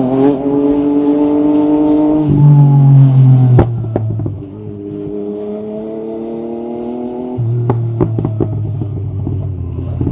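Yamaha MT-09 SP's three-cylinder engine through an Akrapovic carbon Racing-Line exhaust, pulling hard with rising pitch and a gear change about two seconds in. The throttle closes with a sharp pop about three and a half seconds in, the bike runs on at a lower, steady pitch, then backs off again near eight seconds with a short string of exhaust pops and crackles.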